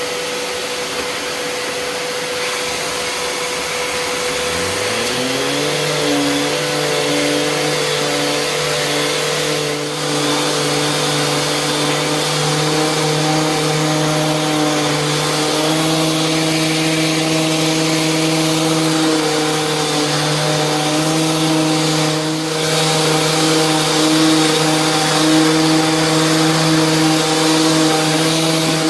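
A vacuum used for dust extraction runs steadily. About four to five seconds in, a Parkside PAEXS 20 LI B2 cordless orbital sander is switched on: its motor hum rises in pitch as it spins up, then sander and vacuum run steadily together.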